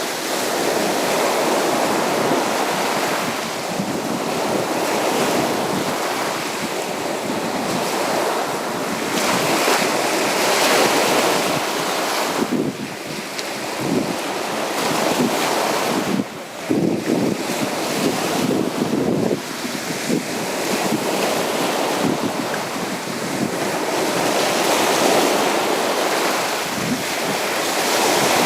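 Sea surf breaking and washing up on a beach, a continuous wash that swells and eases every few seconds.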